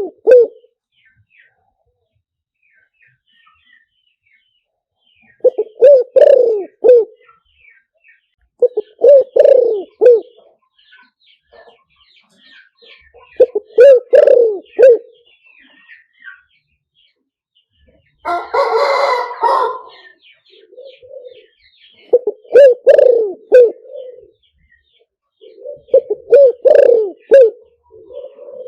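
Spotted dove cooing: repeated multi-note coo phrases, five of them plus the tail of another, each about a second and a half long and a few seconds apart, played as a decoy call to lure wild doves. A harsher, rasping burst of about two seconds comes near the middle, with faint small-bird chirps between the phrases.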